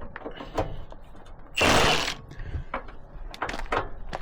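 Irregular metal clicks and rattles of hand tools on the truck's rusty hardware, with one loud, harsh burst lasting about half a second a little after a second and a half in.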